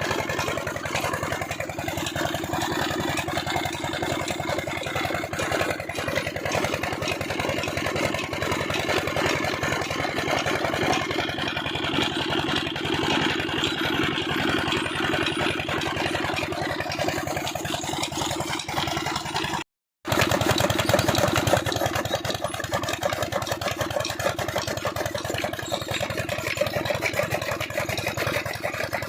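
Old Peter-type single-cylinder diesel engine running steadily with a fast, even chugging while it drives a chaff cutter. The sound breaks off for an instant about two-thirds of the way through, then carries on as before.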